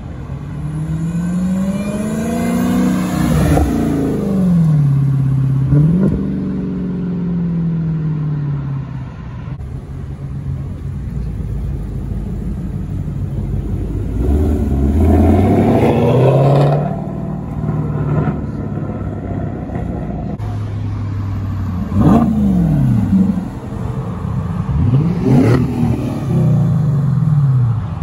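Supercharged 6.2-litre HEMI V8 of a Dodge Challenger Hellcat Redeye Superstock revving several times, the pitch climbing and falling, with two sharp, quick blips near the end.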